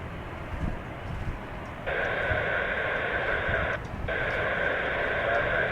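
Air traffic control radio channel open with no voice: a steady static hiss starts about two seconds in, drops out briefly near four seconds, then resumes. Under it is a low rumble of wind on the microphone.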